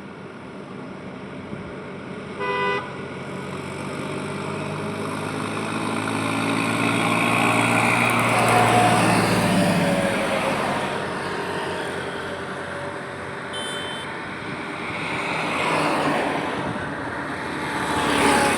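Highway traffic: vehicles passing one after another, with a short horn toot about two and a half seconds in. A heavy vehicle's engine passes loudest around the middle, its pitch dropping as it goes by, and a brief high-pitched horn sounds a few seconds later.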